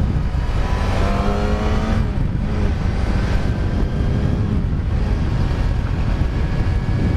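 Kawasaki ZX-6R inline-four engine pulling as the bike accelerates, its pitch rising steadily for a couple of seconds about a second in, under a heavy rush of riding wind on the microphone.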